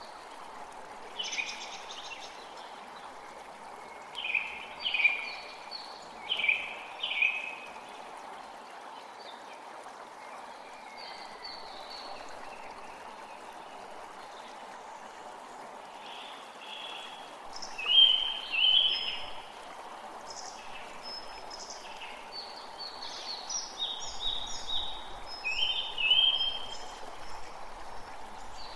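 A forest creek running steadily, with songbirds calling over it in short groups of chirps every few seconds, loudest about two-thirds of the way through.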